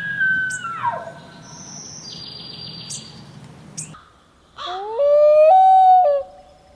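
Bull elk bugling: a high held whistle that drops away about a second in, then, after a lull, a second call that slides up in pitch and holds for over a second before breaking off.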